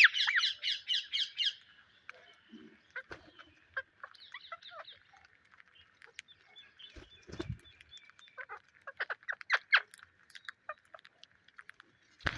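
Psittacula parakeets calling: a fast run of sharp repeated calls, about six a second, for the first second and a half, then scattered short chirps and squawks, with a quick cluster of calls about three quarters of the way through. A dull bump about seven seconds in.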